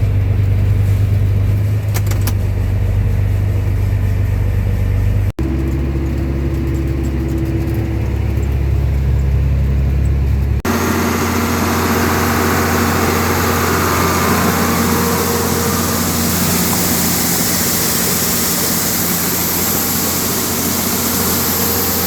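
Heavy farm machinery running during corn harvest, most likely the tractor towing the grain cart. A deep, steady engine drone is cut off abruptly about five and ten seconds in. After the second cut there is a different, noisier machine sound with a steady engine hum under a broad rushing noise.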